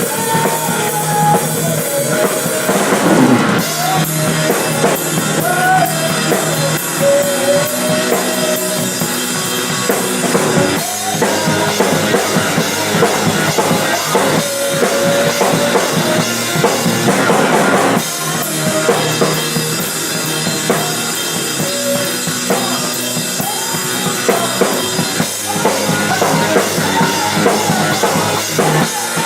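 A rock band playing a song live, with the drum kit loud and up front: kick drum, snare and cymbals driving a steady beat under a wavering melody line, with brief breaks between sections.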